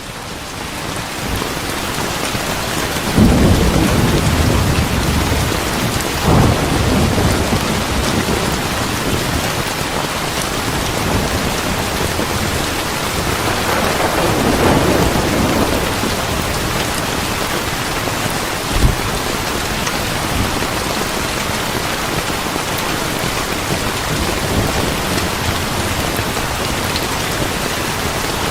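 Steady heavy rain, building up over the first couple of seconds. Rolls of thunder rumble about 3 and 6 seconds in, a longer one comes around 14 seconds, and a short sharp thump follows near 19 seconds.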